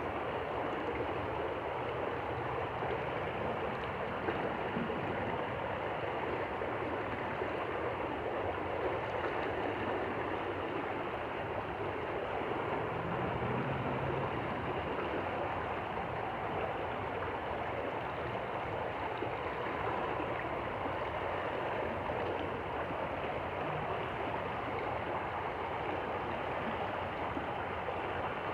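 A stream flowing steadily, with an even rushing and gurgling of water.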